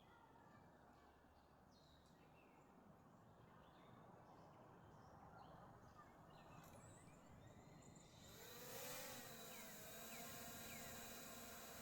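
Near silence: faint forest ambience. About eight seconds in, soft stringed-instrument music fades in.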